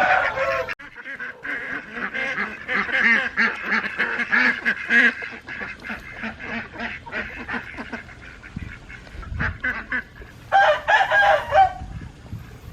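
A flock of ducks, Cayuga and mixed breeds, quacking and chattering continuously, with a louder burst of calls about eleven seconds in.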